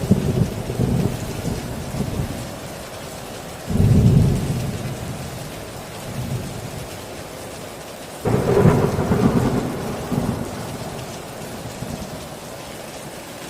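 Steady heavy rain with thunder: three loud rumbling peals, one at the start, one a little under four seconds in and one about eight seconds in, each fading out over a few seconds.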